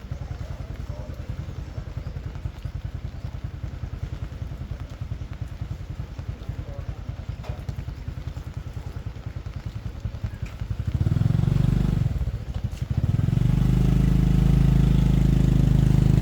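Small motorcycle engine running with a rapid, even putter at idle. It revs up briefly about eleven seconds in, then revs up again and holds near the end.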